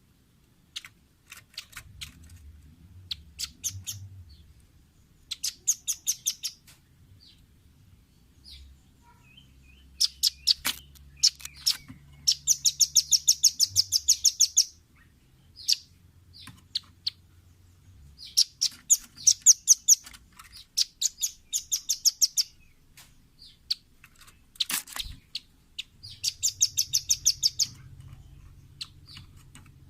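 Velvet-fronted nuthatch (red-billed nuthatch) calling: runs of rapid, high-pitched trilled notes, the longest lasting about two seconds, with scattered single sharp notes between the runs.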